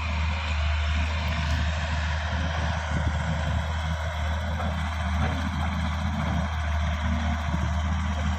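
Heavy diesel machinery engine running steadily at a constant speed, a low drone with no revving.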